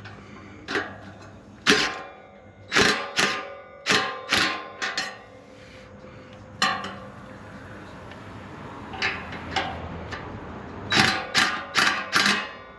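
Steel exhaust tip pipe clanking and knocking as it is wrestled through its hanger: sharp metallic knocks that ring briefly, in scattered groups, with a quick run of several near the end.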